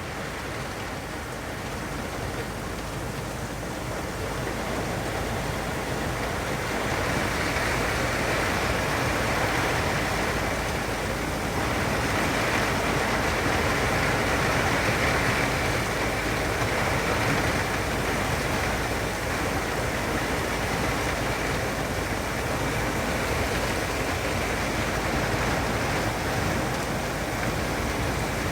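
Steady rain falling, a continuous hiss that builds over the first several seconds and then holds.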